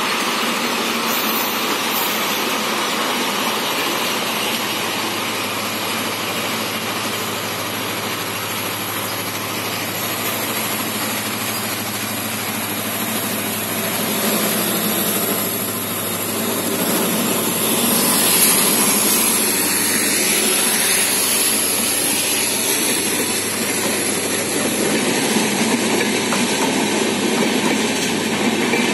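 Trains running past at speed: a steady rushing rumble of wheels on rails, getting louder in the second half.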